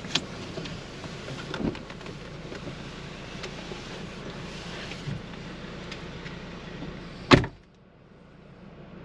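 Car idling, heard inside the cabin, with a few small clicks and one loud thump about seven seconds in. After the thump the steady engine noise drops away sharply.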